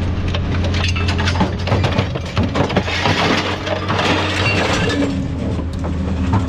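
Scrap metal clattering and crunching in many sharp knocks, densest in the middle, over the steady hum of a heavy diesel engine running.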